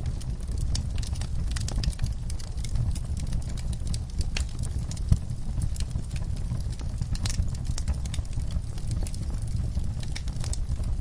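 Wood fire burning in a fireplace: a steady low rumble with frequent irregular crackles and pops, one sharper pop about five seconds in.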